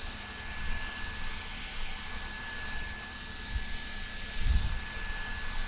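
Small handheld mini fan running: a steady whirring rush of air with a thin, constant whine, and a brief low rumble about four and a half seconds in.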